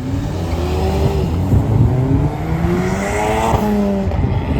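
Racing vehicle's engine accelerating hard down a drag strip, its pitch climbing and dropping back twice at gear changes. Near the end it passes close by and the pitch falls away.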